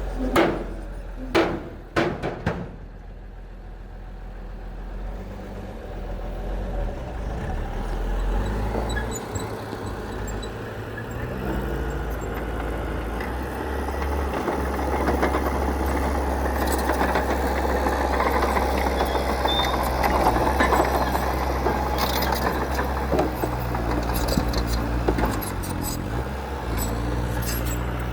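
Heavy diesel engine of earthmoving equipment running steadily, with a few sharp clanks in the first couple of seconds. The machine grows louder from about eight seconds in and stays there.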